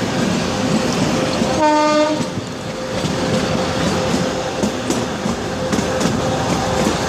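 Kalka–Shimla narrow-gauge passenger train running, its wheels clicking over the rail joints, with a faint steady tone underneath. About a second and a half in, the locomotive gives one short horn blast of about half a second.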